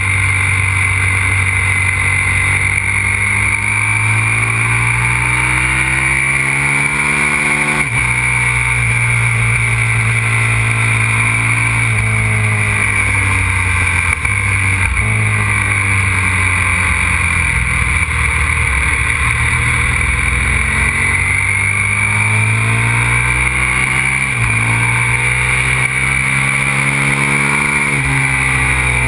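Aprilia RXV 550 supermoto's V-twin engine under load on track, revving up and falling back again and again, with sudden drops in pitch at gear changes about a third of the way in, halfway and near the end.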